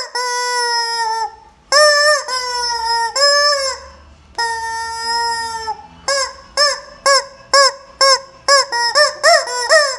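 Squeeze rubber chicken toy squawking, squeezed over and over. It gives a couple of long held screeches and several shorter arched squawks, then a quick run of short squawks in the last few seconds.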